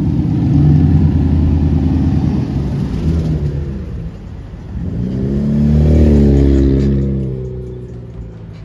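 A car engine running loudly close by, then revving up with a rising pitch about five seconds in and fading away as the car pulls off.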